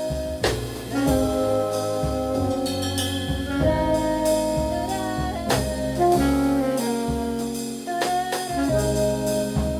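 Small jazz band playing: an alto saxophone holds a melody of long notes over double bass, keys and a drum kit, with cymbal strokes every few seconds.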